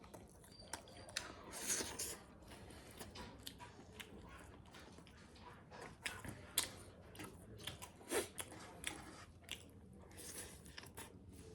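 Close-up eating sounds from a mukbang: a person chewing and biting pork, with irregular wet clicks, crunches and lip smacks.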